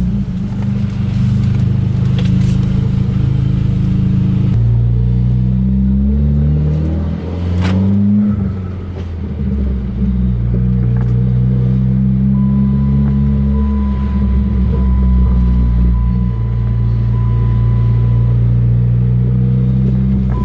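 Dodge Neon SRT-4's turbocharged four-cylinder engine running under way, its pitch falling and rising as the revs change through the gears.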